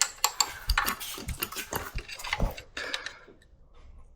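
A 10 mm spanner clinking and scraping against a bolt on a small motorcycle engine as it is fitted and worked on: a quick run of sharp metallic clicks for about three seconds, then it goes quieter.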